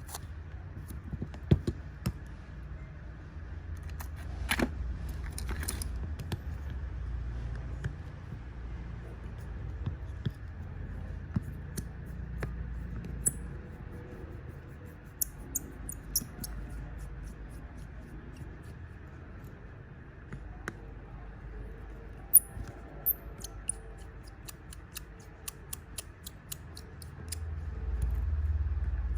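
Small tools clicking and tapping during a smartwatch repair, in scattered sharp ticks over a low steady rumble that swells near the end.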